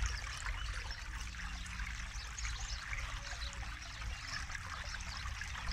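River flowing through a forest: a steady rushing and trickling of water.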